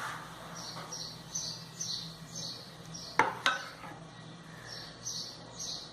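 Two sharp clinks of kitchenware, about a third of a second apart, a little after halfway. Behind them a bird chirps over and over, about twice a second.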